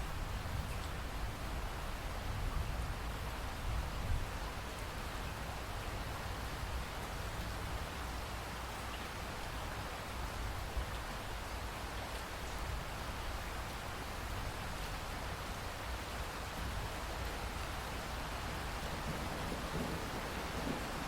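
Steady rain with dripping raindrops, an even wash of noise over a deep low band.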